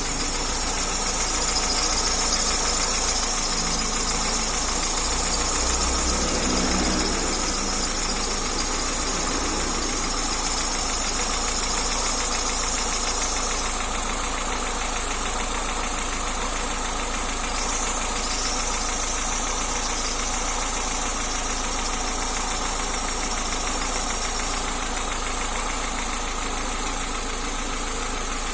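Car engine idling steadily, with the abnormal mechanical noise that is being diagnosed. It cuts off abruptly at the very end.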